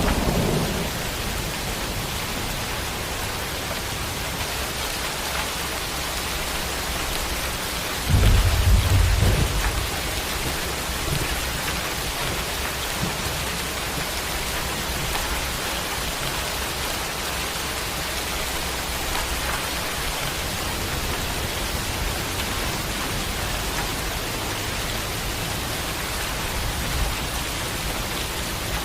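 Steady rain falling, with the tail of a thunder rumble fading out at the start. About eight seconds in, a loud burst of thunder breaks in and rumbles for about two seconds before the rain carries on alone.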